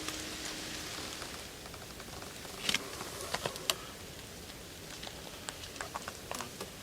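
Light rain pattering steadily, with a few sharp clicks and taps about three seconds in and again near the end.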